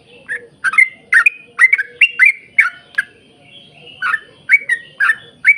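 Yellow-vented bulbul (trucuk) singing a fast run of short, clear chirping notes, two to three a second. The run breaks off for about a second a little past the middle, then resumes.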